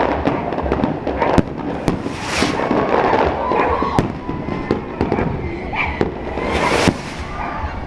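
Fireworks display: a dense crackling with many sharp bangs, and two hissing bursts about two and a half and about seven seconds in.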